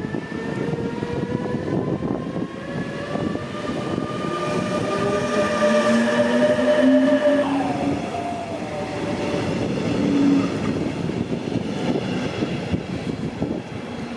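Train passing on the tracks, its wheels clattering over the rails under an electric whine that rises slowly and then drops in pitch about halfway through.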